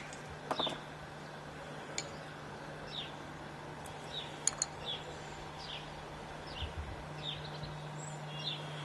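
A small bird chirping repeatedly, short falling notes about once a second, over a steady low hum, with a few sharp clicks.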